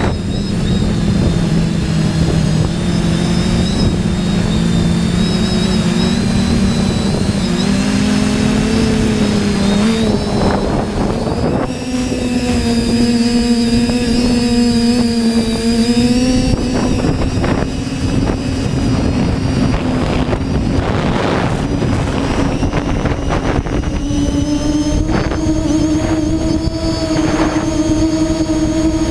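TBS Discovery quadcopter's motors and propellers droning, the pitch stepping up and down as the flight controller corrects against gusts and rising near the end, over rough wind noise on the microphone.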